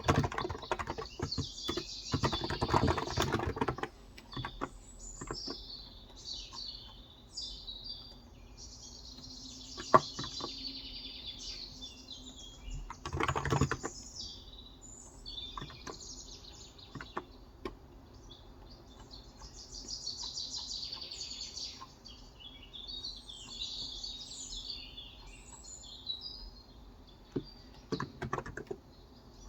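Typing on a Cox Endeavor electrostatic-capacitive (non-contact) 35 g tenkeyless keyboard: a dense burst of keystrokes in the first few seconds, another about halfway and a few keys near the end. Small birds chirp again and again through it.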